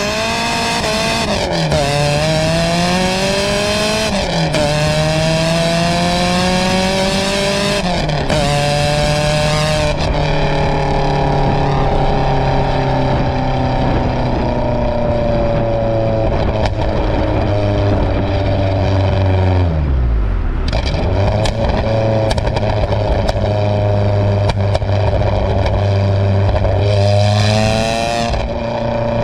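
Supercharged 2.0-litre 8-valve VW engine (G60 supercharger) through a straight-piped exhaust with its exhaust valve open. It is revved up and let fall several times in the first ten seconds, then held at raised revs that sink gradually. Around twenty seconds in it drops back to a low steady idle, and it blips up once more near the end.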